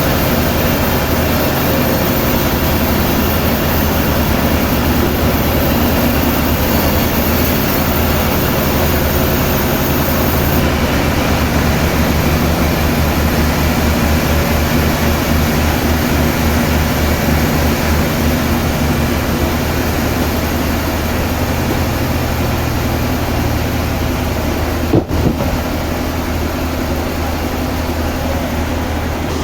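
Sawmill machinery running steadily: a low engine-like hum under loud broad noise, with a brief knock about 25 seconds in.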